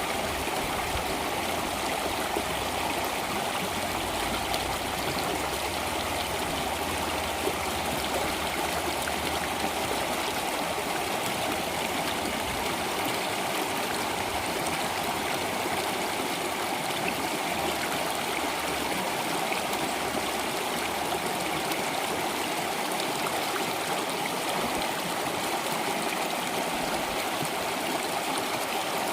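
Water flowing in a stream, steady and even throughout.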